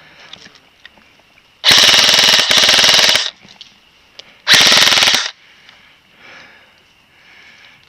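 Airsoft rifle firing close by in full-auto: a rapid stream of shots lasting about a second and a half, then a shorter burst under a second long.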